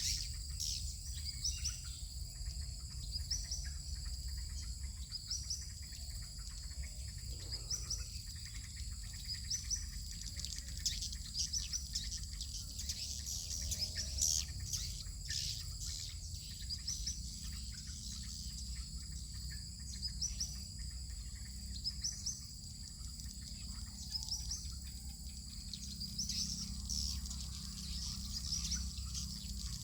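Edible-nest swiftlets chirping: short high calls repeating every second or two, over a low steady rumble.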